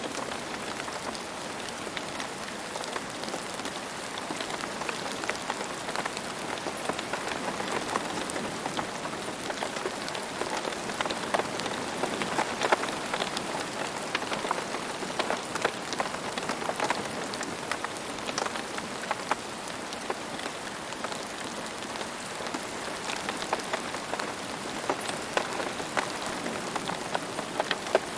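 Steady rain falling on a hard surface, with individual drops ticking and pattering through a continuous hiss.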